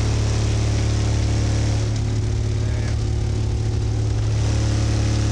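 A competition car audio system's subwoofers, powered by about 15K from a battery bank, holding one deep, steady, very loud bass note during a timed MECCA metering run; this run meters 157.1 dB.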